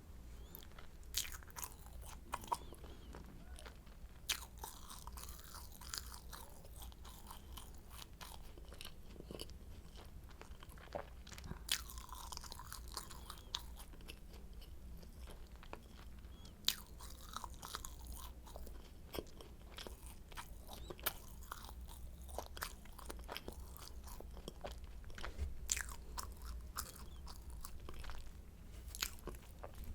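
Close-miked eating of flaky croissant: bites and chewing with irregular crisp crackles of the pastry's crust, the loudest snaps near 1, 4, 12, 17 and 26 seconds in.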